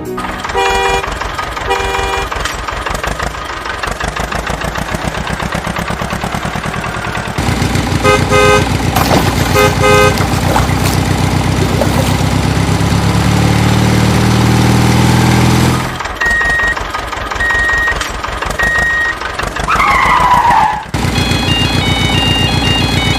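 Cartoon vehicle sound effects: an engine running, with short horn honks near the start and again about a third of the way in. The engine gets louder in the middle, a falling whistle comes near the end, and a run of short electronic beeps follows.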